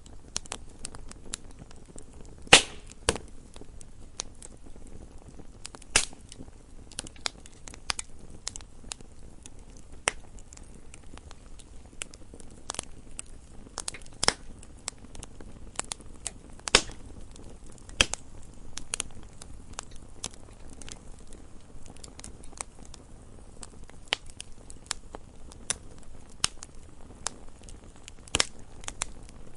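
Wood fire burning in a fireplace, crackling with irregular sharp pops and snaps over a low hiss, a few louder pops standing out.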